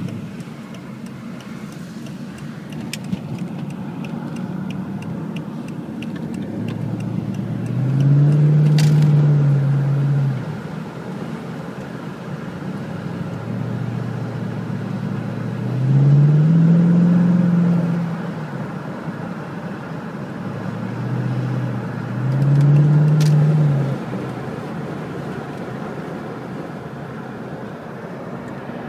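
A car engine pulling harder three times, each time for about two seconds, its note rising and then falling in pitch, over steady road and tyre noise inside a moving car.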